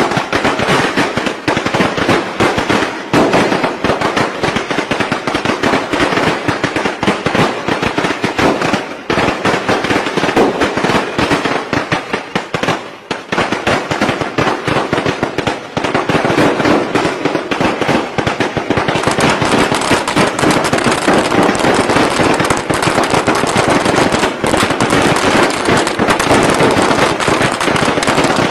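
Strings of Vietnamese Tết firecrackers going off in a dense, continuous rattle of rapid bangs, thinning briefly about halfway through before carrying on just as thickly.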